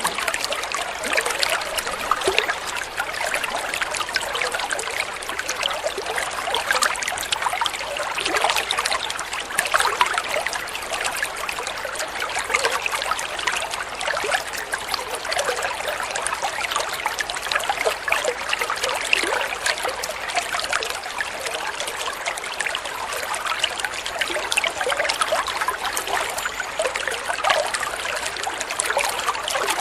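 Water flowing and trickling steadily, a small stream or runnel splashing and burbling without pause.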